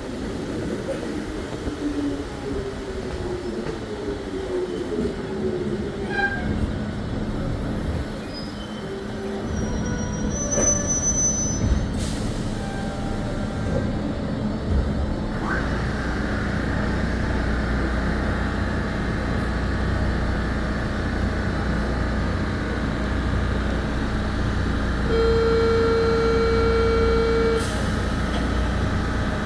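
Belo Horizonte Metro Série 900 electric multiple unit running, with wheel rumble and a motor whine that slides in pitch in the first few seconds, then settles into a steady hum and deeper rumble. Near the end a single steady tone sounds for about two and a half seconds.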